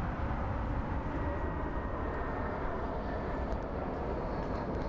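Jet airliner engines, a steady distant roar as an Airbus A321 comes in on approach.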